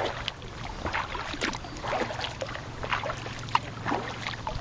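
Kayak paddling: paddle blades dipping into the water with small irregular splashes and drips, over a steady low hum.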